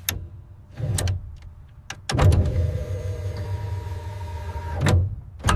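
Electric flap actuator motor of a B-17's wing flaps running as the flaps are cycled. A few short clunks come first, then a steady whir for about three seconds that stops with a clunk, and one more clunk follows near the end.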